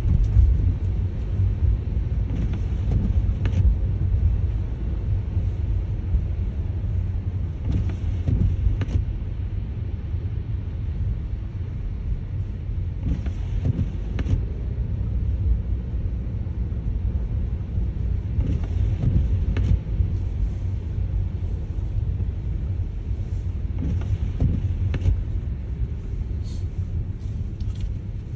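Steady low rumble of a car driving on a snowy road, heard from inside the cabin, with faint swishes recurring every five seconds or so.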